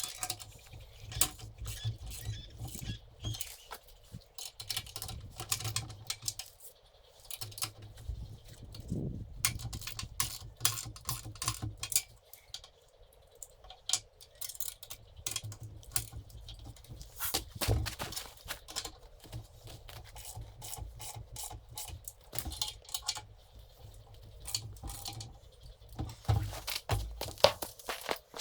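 Irregular clicks, knocks and rattles of tools and metal hardware being handled, over a low steady rumble.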